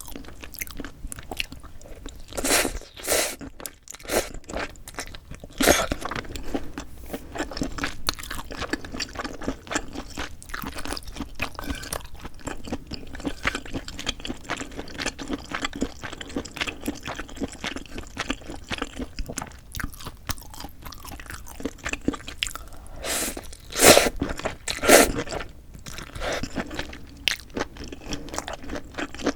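Close-miked chewing of food, wet and crunchy, with a steady run of small crunches and a few louder bites or mouthfuls, near the start and again about three-quarters of the way in.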